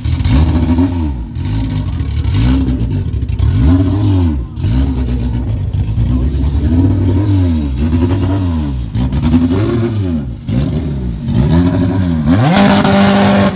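Car engines revved over and over in short blips, each rev rising and falling in pitch, about one a second.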